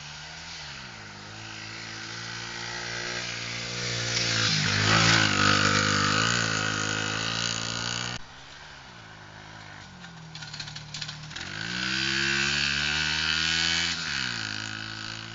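Pit bike engine revving up and down as it is ridden around a dirt track. It is loudest about four to eight seconds in, stops abruptly, then revs up again near the end.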